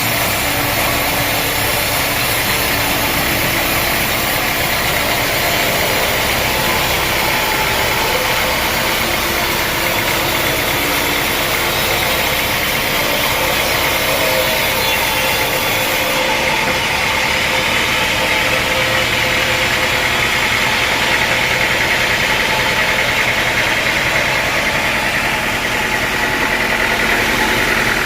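Sawmill saw and its machinery running steadily and loudly, with a hissing band that grows stronger over the last several seconds, as when the blade is cutting through a teak log.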